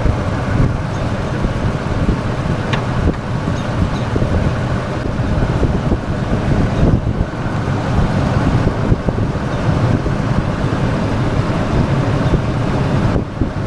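1997 Ford F-150 engine idling steadily with the A/C switched on. The compressor clutch is not engaging, so the compressor is not running.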